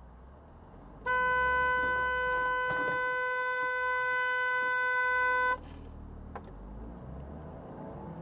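Car horn sounding one steady note, held for about four and a half seconds and then released, over the low rumble of the car driving.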